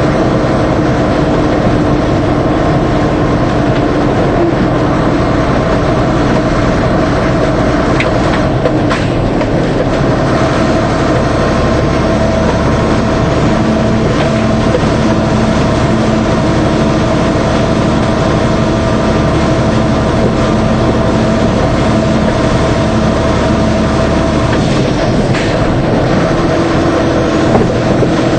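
DAF 75 truck on the move: a steady diesel drone under road and tyre noise. The engine note shifts a few times.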